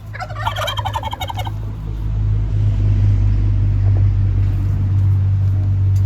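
A turkey gobbles once, a rapid warbling call lasting about a second and a half. Under and after it a vehicle engine's low, steady rumble builds up and becomes the loudest sound.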